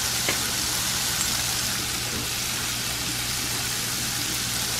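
Bacon and chopped mushrooms sizzling steadily in a frying pan.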